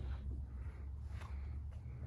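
Toyota 12H-T 4.0 L turbo-diesel inline-six idling with a steady low rumble, and a faint light click about a second in.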